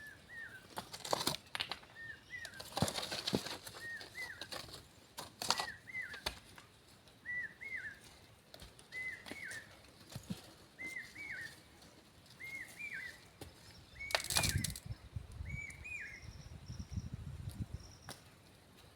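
A bird calling over and over, a short double chirp about once a second, with scattered knocks and rustling. The loudest is a knock and rustle about fourteen seconds in.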